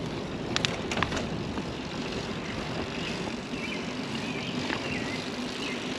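Steady rushing noise of riding a bicycle: wind and tyre noise at the camera, with a couple of short clicks about a second in.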